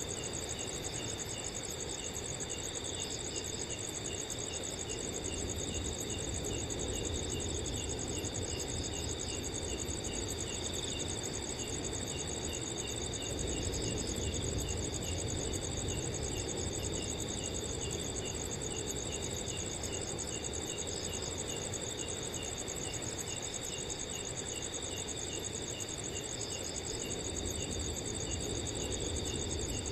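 Several crickets chirping together: a continuous high, fast-pulsing trill with a steadier chirping voice about two or three times a second beneath it, over a low rush of wind.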